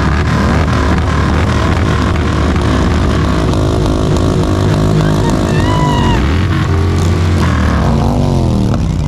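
Motorcycle engines running and revving close by, several at once, with the engine note dipping and climbing again near the end. A brief high-pitched tone rises and falls about six seconds in.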